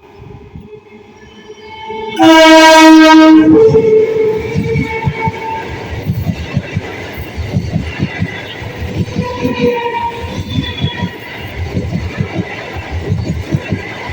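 Electric multiple unit (EMU) local train sounding one loud horn blast about two seconds in, lasting about a second and a half. It then passes at high speed, its wheels clattering rapidly over the rail joints.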